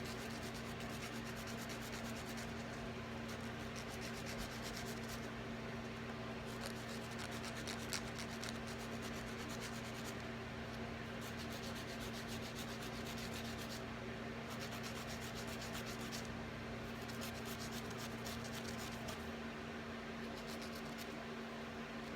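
A nail file rasping against a cockatoo's claws in quick repeated strokes, coming in bouts with short pauses, over the steady hum of running fans.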